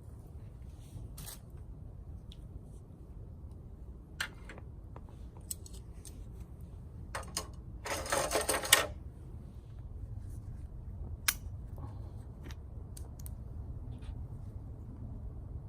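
Light clicks and snaps of small twigs being handled and fed into a small wood fire, with a brief rustling crackle about eight seconds in, over a low steady rumble.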